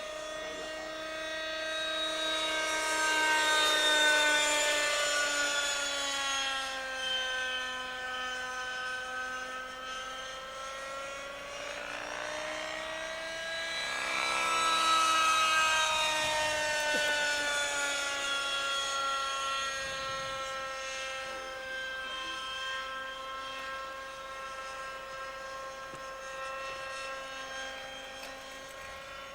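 Schlüter Magic radio-controlled model helicopter's glow engine and rotors running in flight with a steady whine. It grows louder twice as the helicopter comes near, the pitch rising before the second peak and falling away after it.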